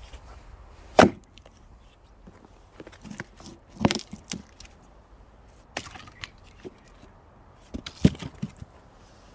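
Axe blows splitting firewood logs: four sharp strikes two to three seconds apart, the first the loudest, each followed by a few smaller knocks.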